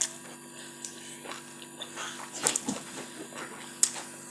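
Close-miked eating sounds: soft chewing and mouth noises with a few short sharp clicks, the sharpest nearly four seconds in, over a low steady hum.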